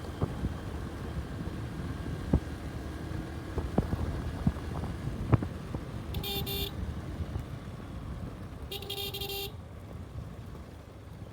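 A vehicle horn sounds twice, a short toot and then a slightly longer one about two seconds later, over steady road and wind noise. Several sharp knocks or clicks come in the first half.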